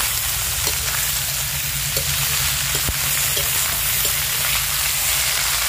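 Diced papaya and potato frying in hot mustard oil in a steel kadhai, a steady sizzle with a low rumble underneath. A steel slotted spoon clicks and scrapes against the pan a few times as the pieces are stirred.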